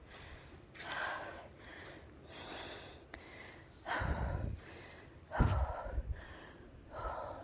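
Heavy, rhythmic panting of a hiker climbing steep stairs, a breath about every second and a half. Two low thumps come a little past halfway.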